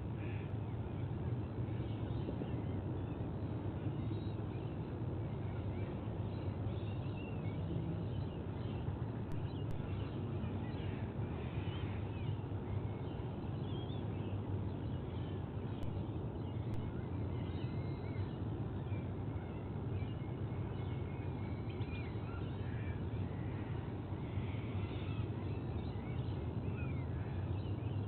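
Short bird chirps and calls, scattered throughout, over a steady low rumble.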